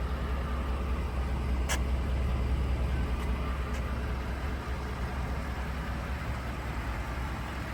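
2010 Ford F-150 idling: a steady low hum with an even hiss over it, and a single sharp click about two seconds in.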